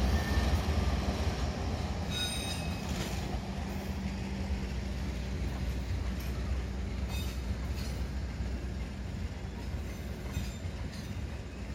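Passenger train's coaches rolling past as it pulls out of the station: a steady low rumble, with a brief high wheel squeal about two seconds in and a few clicks of wheels over the rail joints later on.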